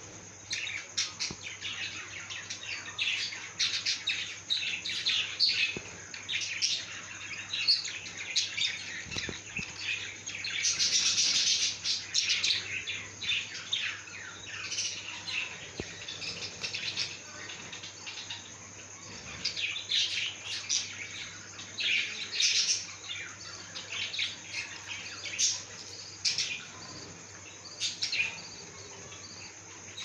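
Many short, high bird chirps, scattered irregularly and thickening into a dense burst for about a second and a half near the middle, over a steady high whine.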